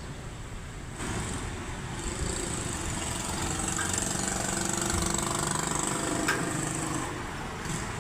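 Isuzu 10PC1 diesel truck engine running, getting louder about a second in and easing back near the end.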